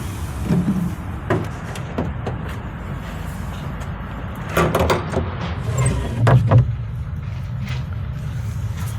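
Steady low rumble of an idling truck engine, with several short knocks and clatters over it, the loudest cluster past the middle.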